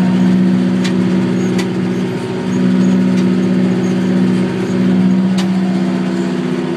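McCormick GX50 utility tractor's diesel engine running steadily under load, with the bush hog turning behind it, heard from inside the cab: a steady drone that swells and dips slightly. Three sharp clicks are heard over it.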